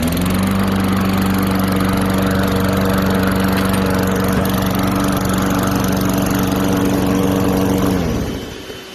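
Small gasoline engine, started with a key, picking up speed and then running steadily. It winds down and stops about eight seconds in.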